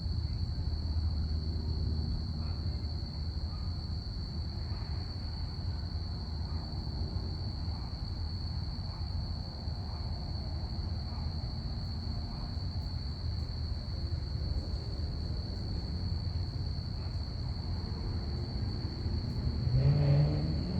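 Crickets chirping as one unbroken high trill over a steady low rumble of a distant passing plane. A louder sound with a shifting pitch comes in near the end.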